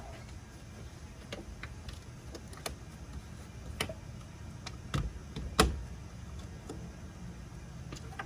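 Light clicks and knocks of a plastic oil bottle and filler cap being handled while new engine oil is poured into the engine, one knock about five and a half seconds in louder than the rest, over a steady low rumble.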